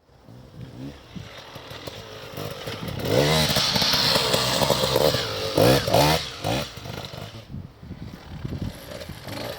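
Enduro motorcycle engine revving hard off-road, the engine note climbing in quick rising sweeps. It gets loud about three seconds in, with sharp rev bursts a little before six seconds, then drops back.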